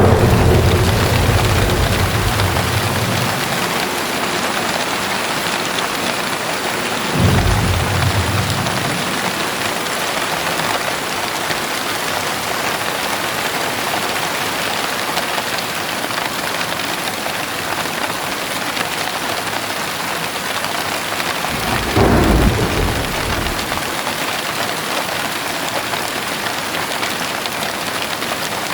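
Heavy rain falling steadily with thunder rumbling: a roll fades out over the first few seconds, a fresh clap breaks about seven seconds in and another about twenty-two seconds in, each dying away over a couple of seconds.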